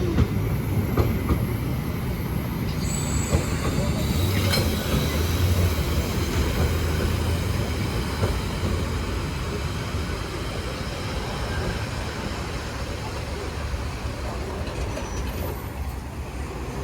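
Narrow-gauge Brocken railway train rolling into the station and slowing to a stop, with a steady low rumble of wheels on rail and brief high wheel squeal a few seconds in. The sound gradually fades as the train slows.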